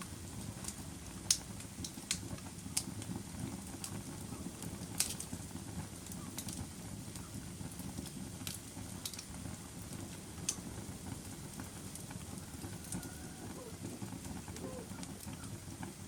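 Wood fire burning in a fireplace: a steady low rush of flames with scattered sharp crackles and pops, a few louder snaps in the first half.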